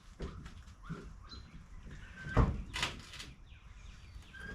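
Knocks and a thud of a heavy steel car door being handled as it comes free of its hinges and is set down, the loudest knock about two and a half seconds in.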